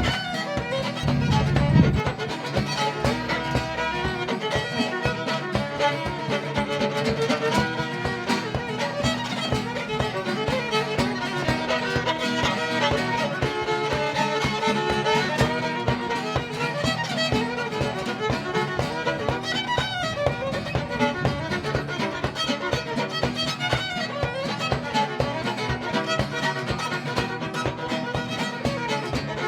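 Fiddle playing a folk tune over plucked-string accompaniment, guitar or banjo.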